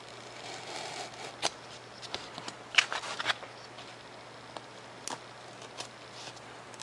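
Razor knife cutting freehand through a sheet of 3mm Depron foam: a soft, scratchy hiss of the blade dragging through the foam, broken by irregular sharp clicks and ticks.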